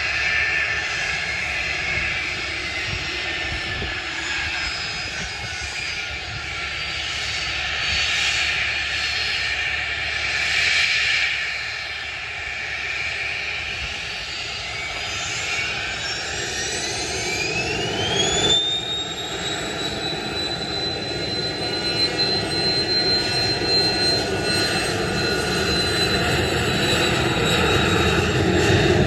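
Embraer Phenom 300's twin Pratt & Whitney Canada PW500-series turbofans whining over a steady jet roar. About two-thirds of the way through, the whine rises sharply in pitch as the engines spool up to takeoff thrust, then holds at a high steady tone while the roar grows louder toward the end.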